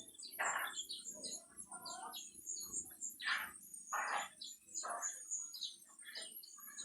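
Several birds calling: short, harsh squawking calls repeat about once a second over a steady, high-pitched twittering.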